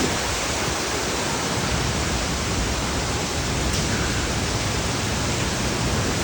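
Heavy rain shower pouring down in a steady, even hiss.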